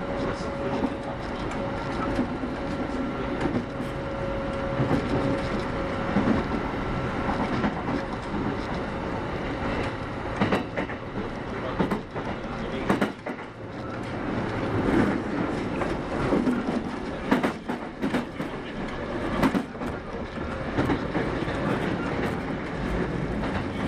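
Kintetsu 8810 series electric train running at speed, heard from inside the car: a steady rumble of wheels and running gear with occasional clicks over rail joints. A faint steady hum sounds in the first half and fades out.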